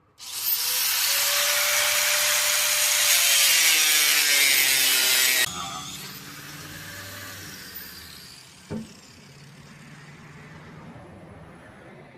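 A power tool runs loudly for about five seconds and then cuts off abruptly. A quieter low hum follows, with a single click near the end.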